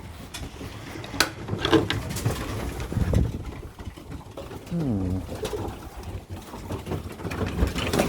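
Racing pigeons cooing in the loft, with one clear falling coo about five seconds in. A few sharp clicks sound in the first two seconds.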